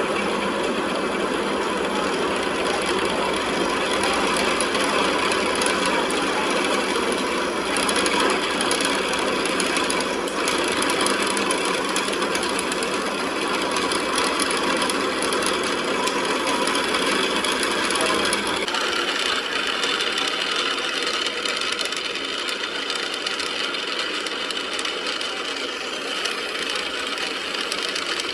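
Workshop machinery running steadily, its pitch and character shifting suddenly about two-thirds of the way through, then running on a little quieter.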